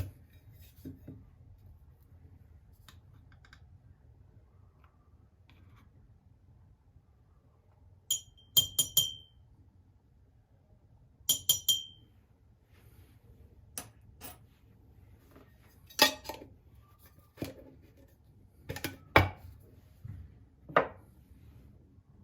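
Glass clinking: two quick runs of three or four ringing strikes, then a few single knocks and taps of things being set down.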